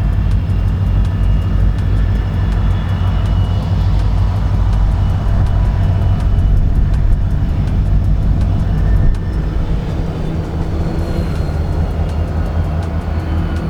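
Diesel locomotive engine running with a steady low drone as it backs a cut of cars toward a coupling; the engine note eases slightly about nine seconds in.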